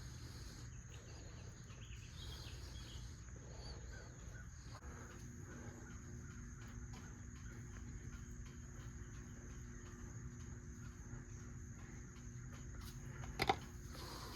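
Faint steady background noise with a thin high whine. A low, even hum comes in about five seconds in, and there is one sharp click near the end.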